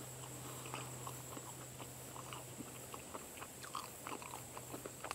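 A person chewing a bite of soft fried-dough hand pie close to the microphone: faint, irregular small wet mouth clicks, with a steady thin high-pitched tone in the background.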